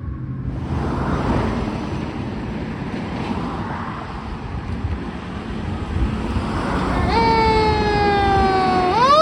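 Baltimore City fire engine passing close with a loud, even rush of engine and road noise. About seven seconds in, its siren comes back in, slowly falls, then rises sharply into a wail near the end.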